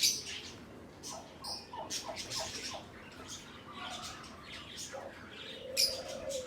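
Domestic turkeys calling: a quick run of about five short notes, then one longer, slightly falling call near the end.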